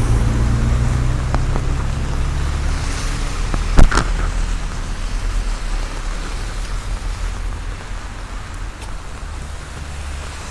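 Heavy rain falling steadily, over the low, steady rumble of a nearby vehicle engine that slowly fades. A single sharp knock sounds about four seconds in.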